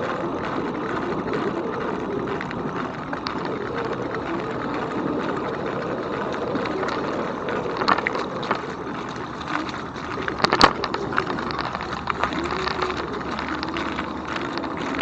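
Riding an e-bike: steady rolling and wind noise with a wavering hum that rises and falls. A few sharp clicks or knocks come around the middle, the loudest about ten and a half seconds in.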